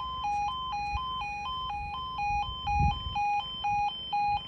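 Level crossing warning alarm sounding while the barriers are down: a two-tone warble, switching between a lower and a higher note about twice a second. A brief low rumble comes a little before the end.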